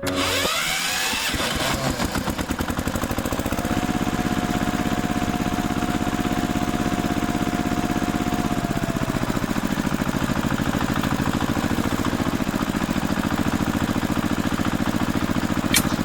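Engine running with a fast, even chugging. A steady high whine comes in about four seconds in and fades out about nine seconds in.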